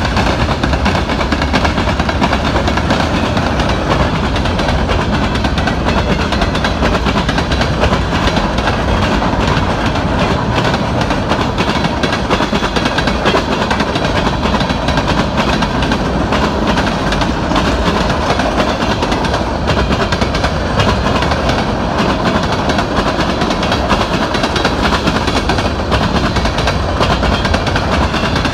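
Loud, steady passing of freight cars: steel wheels rolling on the rails with a continuous rumble and many small clicks and clatters from the wheels and couplings.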